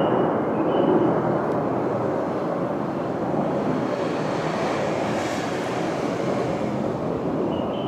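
Jet roar from two military fighter jets taking off. It is a loud, steady, rumbling roar that eases slightly over the first second or two.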